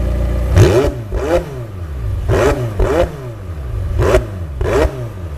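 A stock McLaren 720S twin-turbo V8 idles, then is blipped in about six short, sharp revs, each rising and falling quickly.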